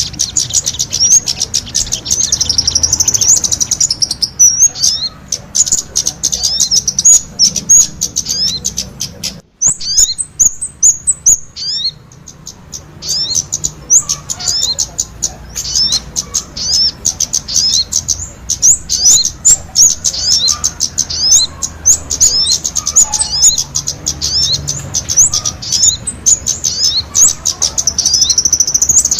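Small songbirds, a kemade and a sogon (crimson sunbird), singing together in a long, fast, high-pitched stream of chirps and sweeping twitters, with one brief break about nine seconds in.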